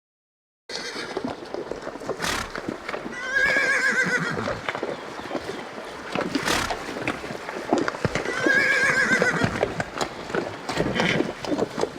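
A horse whinnying twice in quavering calls, over a clatter of knocks like hooves on hard ground. It starts just under a second in.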